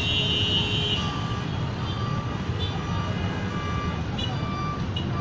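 Road traffic engines rumbling steadily, with a high shrill tone for about the first second, then a vehicle's reversing alarm beeping over and over, roughly once a second.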